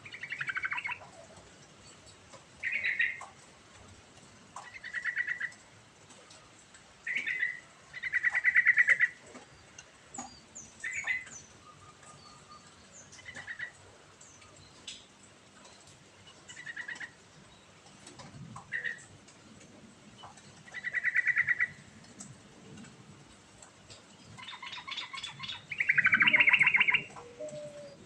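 Yellow-vented bulbul singing: a string of short phrases, each about a second or less, repeated every couple of seconds with brief pauses, the loudest phrase near the end.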